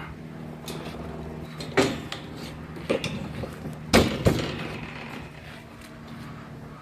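Several separate metal clanks and knocks from a homemade steel tailgate, made from a hospital bed frame, being handled. The loudest comes about four seconds in, with a second right after it. A steady low hum runs underneath.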